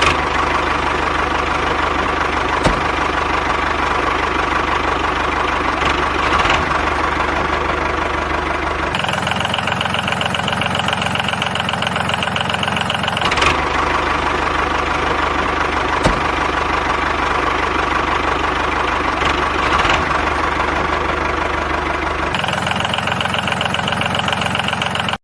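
Small motor of a DIY mini tractor running steadily with a fast, even chugging pulse. Its tone shifts abruptly three times.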